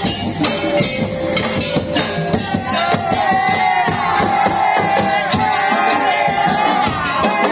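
Madurese tong-tong music: a parade band's wooden slit drums and drums beat a dense, driving rhythm. From about a third of the way in, a held, wavering melody line rises over it.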